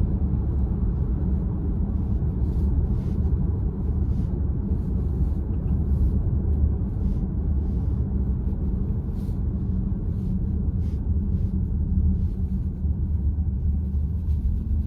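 Steady low road and tyre rumble inside the cabin of a moving Volkswagen ID.4 electric SUV.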